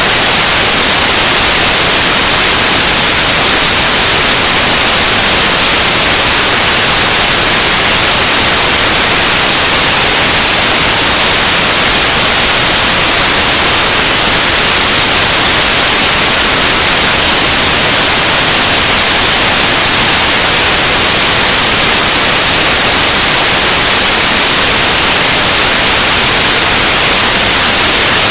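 Loud, unchanging wall of static-like hiss, heaviest in the high end and without any tone, beat or break: harsh noise music.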